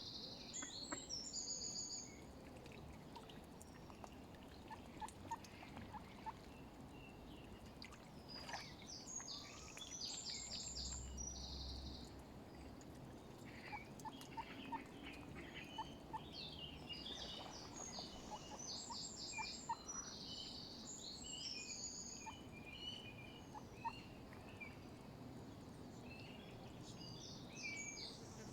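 Birds calling outdoors: bursts of rapid, high chattering notes every few seconds, with faint short pips lower down over a quiet steady background.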